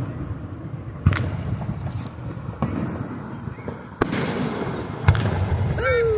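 Fireworks going off: three sharp bangs, about a second in, about four seconds in and about five seconds in, each trailing into a rumbling crackle, with fainter pops between them.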